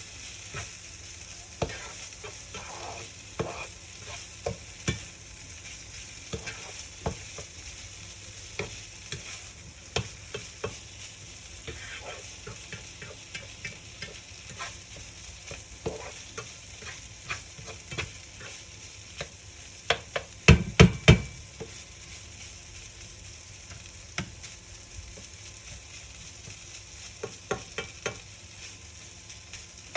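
Food sizzling in a frying pan while a utensil stirs and scrapes it, with scattered clicks. A short cluster of loud knocks comes about twenty seconds in.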